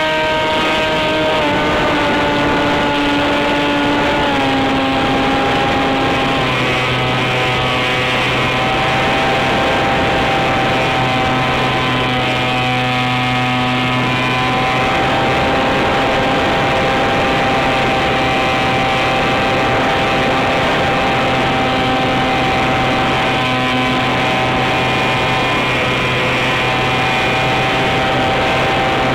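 Brushless electric motor (NTM Prop Drive 28-26, 1200kv) spinning an 8x6 propellor on an RC flying wing: a steady whine that steps down in pitch a few times in the first several seconds as the throttle is eased, then holds nearly even, over a rush of wind noise.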